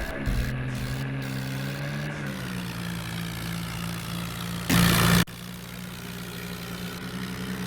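Swaraj 744 tractor's diesel engine running steadily, its pitch easing down a little after about two seconds. About five seconds in there is a loud, half-second burst of noise.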